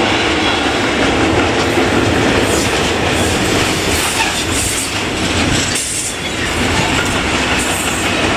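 Long freight train passing close by, its wagons rumbling and clattering steadily over the rails, intermodal pocket wagons with swap bodies giving way to open freight wagons.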